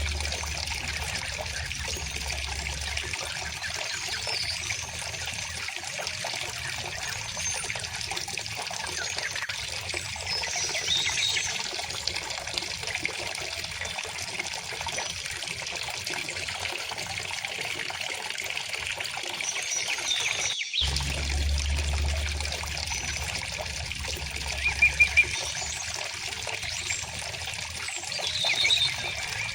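River water flowing steadily, with birds chirping now and then above it and a cluster of louder chirps about four-fifths of the way in. The sound cuts out for an instant about two-thirds through.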